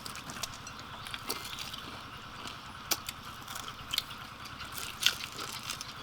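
Hot cooking oil sizzling with scattered sharp crackles and pops as food fries in it; the loudest pops come about three and five seconds in.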